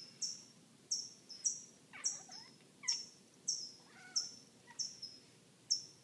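A small bird chirping over and over, each chirp short and high and falling in pitch, at a steady rate of a little under two a second. It is an upset bird scolding a cat that is watching it.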